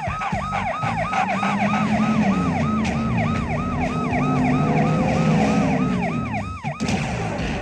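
A vehicle siren sounding in rapid repeated falling sweeps, about four a second, over the low rumble of an engine. The siren cuts off suddenly near the end.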